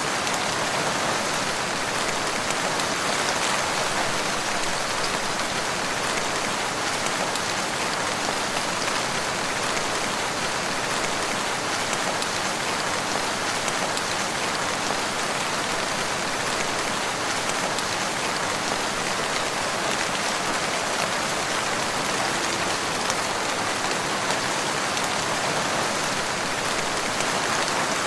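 Steady rain falling and pattering on a surface, an even hiss of countless drops with no let-up.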